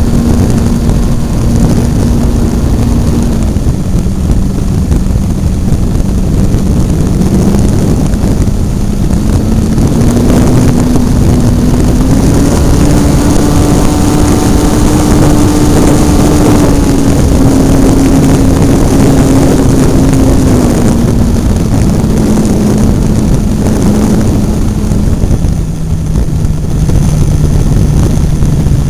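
Hobbistar 60 RC model airplane's engine and propeller running loud, heard from a camera on board, over a rush of wind on the microphone. The pitch steps up and down with the throttle: higher through the middle, and lowest for the last few seconds.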